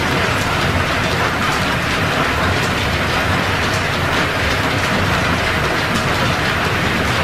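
Belt-driven metal lathe, powered from steam-engine line shafting, taking a steady taper cut. The machinery runs with a continuous mechanical clatter and faint regular ticking.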